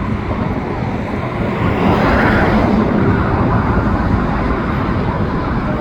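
A steady rumble of highway traffic mixed with a slow freight train of auto-rack cars rolling past. It grows louder about two seconds in, as a vehicle passes close.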